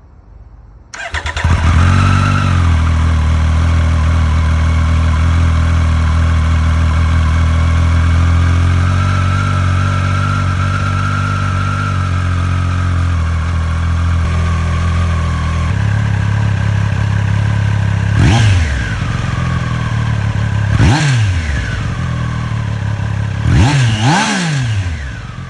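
Triumph Street Triple 765 RS inline three-cylinder engine on its stock exhaust, starting about a second in and idling steadily, the idle settling a little lower about two-thirds through. Near the end come four quick throttle blips, the last two back to back.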